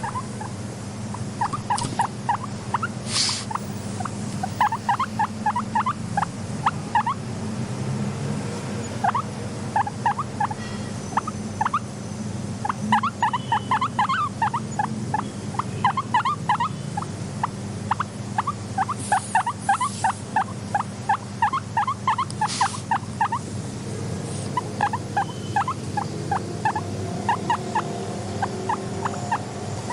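Guinea pig squeaking in runs of short, quick calls, several a second, with brief pauses between the runs, over a steady low hum.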